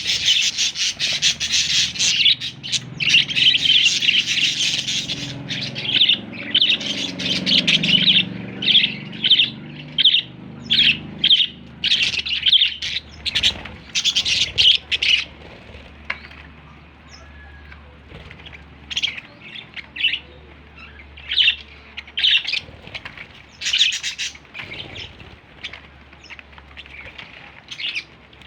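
Young budgerigar chirping and squawking in rapid short high-pitched bursts: busy and nearly continuous for the first few seconds, then separate chirps, thinning out toward the end.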